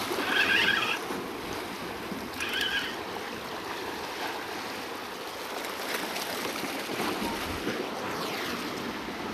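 Steady wash of surf and wind noise at the rock shelf, with two short high squeaks in the first three seconds.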